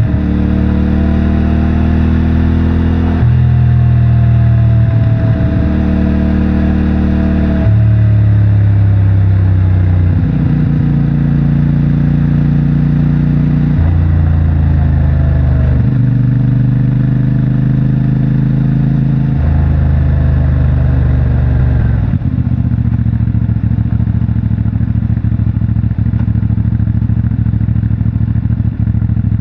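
Motorcycle engine of a CFMOTO 450MT, a 449 cc parallel twin on its stock exhaust, running under way, its note stepping up and down every few seconds. About two-thirds in it drops to a lower, rougher steady note.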